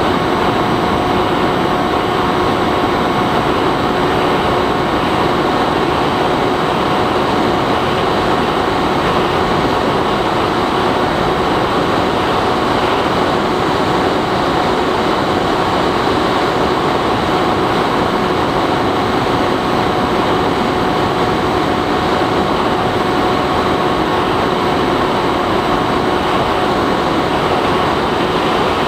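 Bixler 3 RC plane in flight, heard from on board: the steady whine of its electric motor at constant throttle over a loud, even rush of wind.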